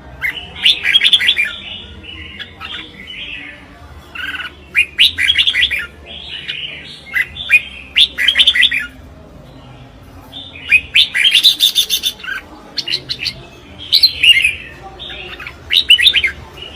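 Red-whiskered bulbul singing its competitive song: short, loud phrases of quick, chirping notes, repeated every second or two with brief pauses between.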